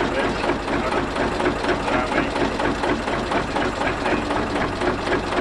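Ruston & Hornsby narrow gauge diesel locomotive's engine running steadily, with a rapid even beat.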